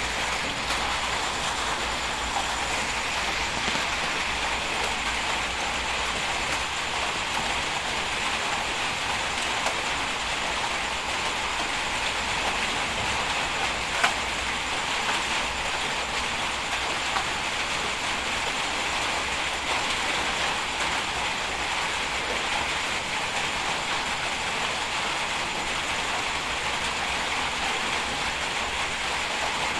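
Steady, even hiss with no engine tone in it, broken by one sharp click about halfway through.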